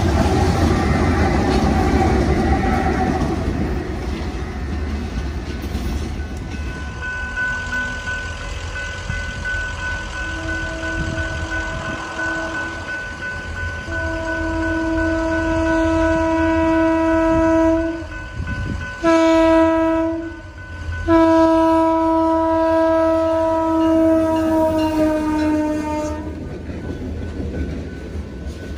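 A BNSF diesel locomotive's multi-chime air horn sounds the long, long, short, long grade-crossing signal over the steady rumble and clatter of the train rolling past. The last long blast drops slightly in pitch at its end as the locomotive passes.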